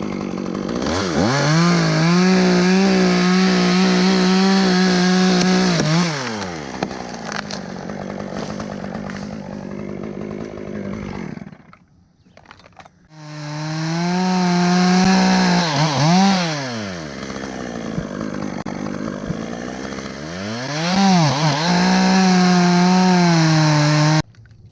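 Chainsaw run at full throttle three times, each time climbing to a steady high pitch, then dropping back to a lower idle between runs. It cuts off abruptly just before the end.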